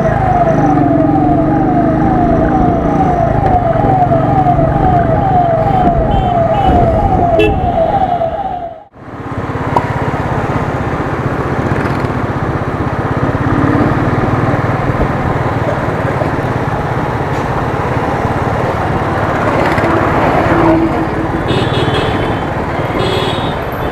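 Ambulance siren wailing in quick repeated rising sweeps, about two to three a second, over the rumble of a Royal Enfield Thunderbird's single-cylinder engine and wind noise while riding. About nine seconds in the siren stops abruptly. Engine, wind and traffic noise carry on to the end.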